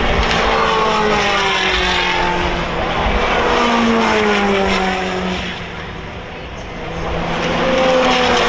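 Race cars passing at speed one after another, each engine note falling in pitch as it goes by. The sound dips about six seconds in, then more cars come up and pass.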